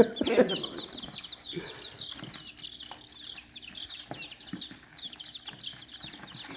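A group of baby chicks peeping without pause, many quick high peeps that each fall in pitch, with a few light taps among them.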